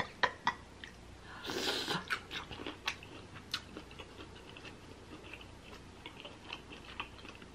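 Close-miked mouth sounds of eating boiled shrimp: wet chewing clicks and smacks, louder and denser in the first few seconds, then fainter scattered ticks.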